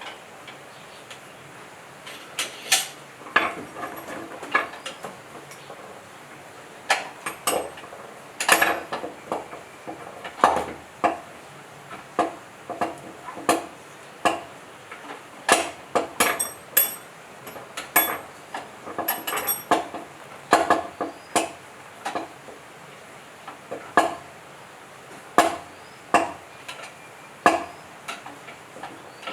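Irregular metallic clinks and knocks of tools and metal parts being handled and set down, some ringing briefly.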